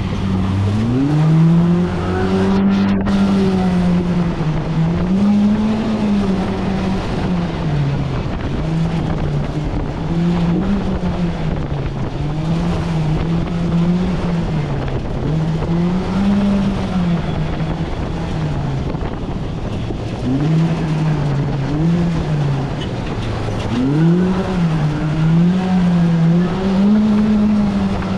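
Polaris RZR Pro R side-by-side's four-cylinder engine revving up and falling back again and again as it is driven hard along a winding trail.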